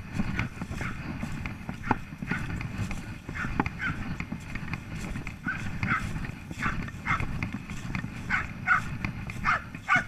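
Rhythmic footsteps and rustling of someone moving over woodland ground, with a dog giving short, repeated cries that come more often in the second half.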